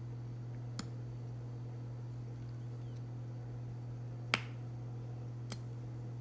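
Three sharp clicks of small plastic toy pieces being handled, the loudest about four seconds in, over a steady low hum.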